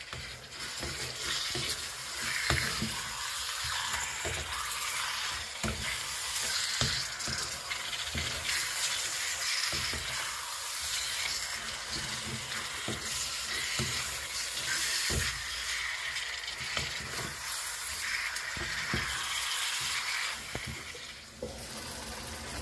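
Chicken pieces frying in oil in a pan, sizzling steadily, while a spatula stirs and scrapes them with irregular knocks against the pan.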